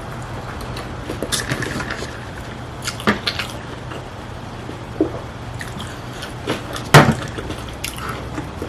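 Close-miked mukbang eating: wet chewing, smacking and slurping, with scattered sharp clicks and one loud smack about seven seconds in.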